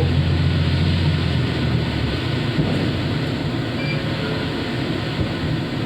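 KiHa 54 diesel railcar running, heard from inside: a steady low engine drone that drops away about two seconds in, leaving the even rumble of the car rolling on the rails.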